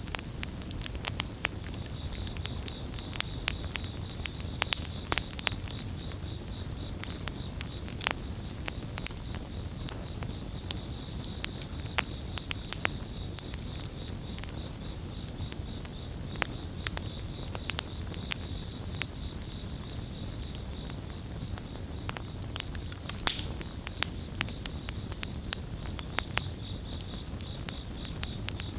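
Campfire crackling, with frequent sharp pops over a low steady rumble, while crickets chirp in a steady high pulsing trill behind it.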